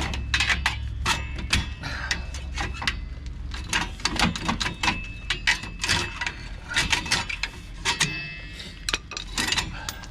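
Irregular metallic clicks, taps and scrapes of a screwdriver working the return springs and hardware off a 1999 GMC Yukon's rear drum brake, several clicks a second, some with a brief metal ring.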